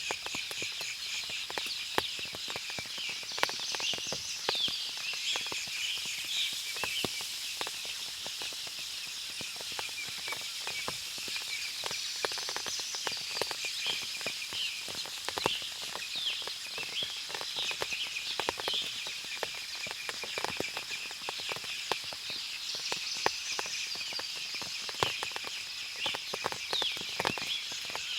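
Forest ambience after rain: a dense chorus of many birds chirping, over a steady high background hum, with scattered sharp ticks throughout.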